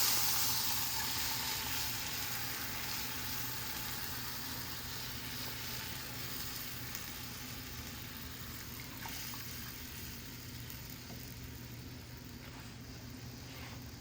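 Kadhi tempering of mustard seeds, cumin, asafoetida, curry leaves and red chili sizzling in hot oil, the hiss slowly dying down.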